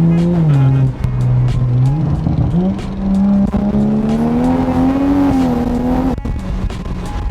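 Tuned turbocharged Toyota Supra engine under way. Its pitch drops on a gear change about a second in, climbs steadily as it pulls through the next gear, then falls again near six seconds in, with two sharp cracks near the end.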